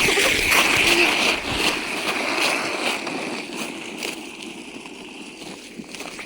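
A sled sliding down an icy snow slope, its bottom scraping and hissing over the crusted snow, fading gradually.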